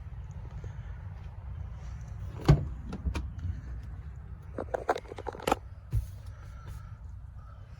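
A steady low rumble with a series of sharp clicks and knocks, the loudest about two and a half seconds in and another cluster around five seconds in.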